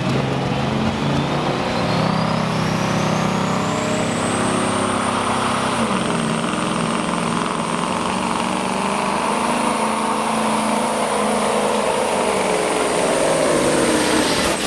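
Limited pro stock semi truck's diesel engine running hard under load on a pull, with a high turbo whine that climbs steeply over the first four seconds and then holds level.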